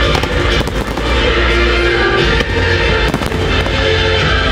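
Fireworks display: aerial shells bursting with several sharp bangs and crackles over the hiss of ground fountains, with music playing throughout.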